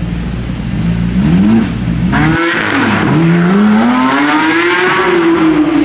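Car engine revved briefly twice, then accelerating hard with its pitch climbing for about two seconds before it falls away near the end.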